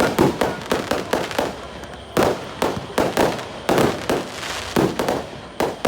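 Fireworks going off in quick succession: a fast, irregular string of sharp bangs and crackles, several a second, each with a short echoing tail.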